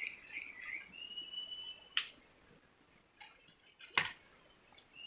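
A wild bird calling: a short warbling phrase, then a long, steady high whistle, with two sharp clicks about two seconds apart.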